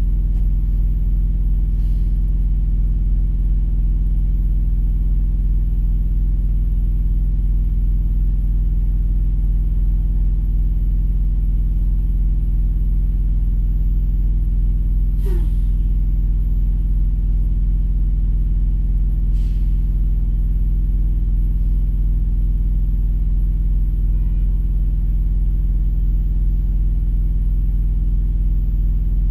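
Steady low rumble of an idling vehicle engine heard from inside the cab, with a few faint clicks.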